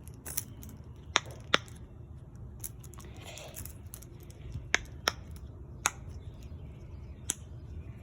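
About seven sharp clicks or taps, spaced unevenly, over a steady low background rumble.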